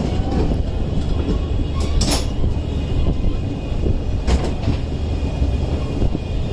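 Passenger express train pulling out of a station and rolling past at low speed: a steady low rumble of wheels on rail, with a few sharp clacks over rail joints, the clearest about two seconds in and again about four seconds in.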